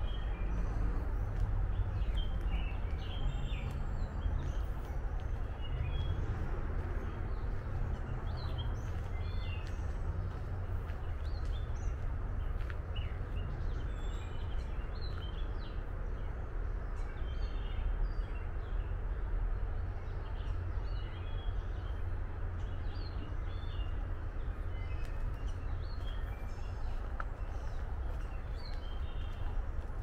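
Several wild birds chirping and singing in short, scattered calls, over a steady low rumble.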